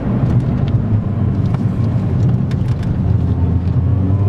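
Small car's engine running at a steady pitch while driving, heard from inside the car, with road noise.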